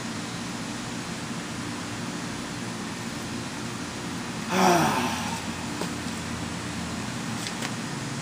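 A steady low hum and hiss, with a man's short falling groan about four and a half seconds in.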